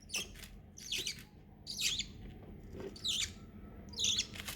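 Baby parrot giving short, shrill begging squawks about once a second while being fed.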